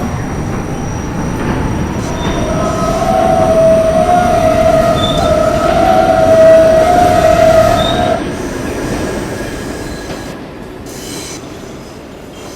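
R68A subway train running on the rails with a steady rumble; from about two seconds in its wheels squeal for several seconds, the squeal strongest just before it stops, typical of wheel flanges grinding on a curve. After the squeal the running sound grows quieter.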